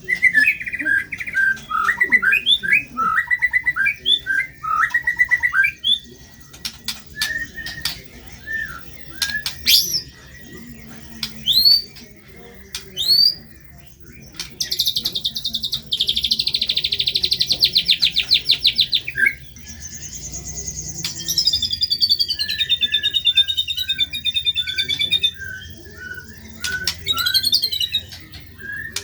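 White-rumped shama (murai batu) singing a varied, loud song: strings of chirps and short upward-sweeping whistles, then about halfway in a long, rapid, high trill, followed by a falling warbled phrase over a run of quick lower notes.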